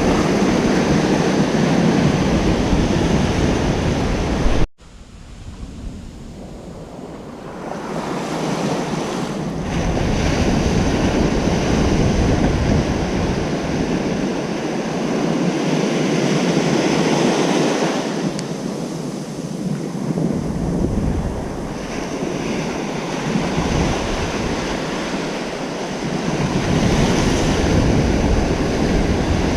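Ocean surf washing on a beach, a steady rushing of breaking waves that swells and eases. About four and a half seconds in, the sound drops off abruptly and then builds back up over several seconds; wind rumbles on the microphone at times.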